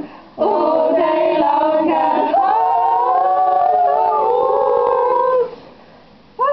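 Several voices singing together in harmony, holding long notes that slide into a chord and then break off about five seconds in.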